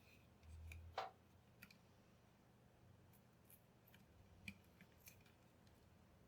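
Near silence with faint clicks and light taps from small parts being handled, one sharper click about a second in.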